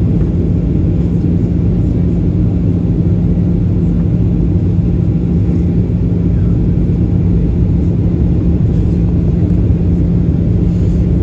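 Passenger-cabin drone of a Boeing 737-800 in flight: the steady rush and rumble of the CFM56 turbofan engines and airflow, with a constant low hum running through it.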